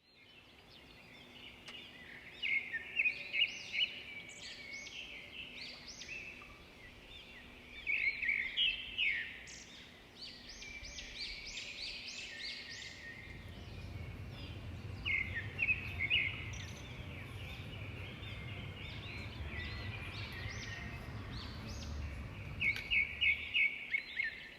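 Several birds chirping and calling, with loud bursts of rapid repeated calls four times, over a faint low rumble in the middle stretch.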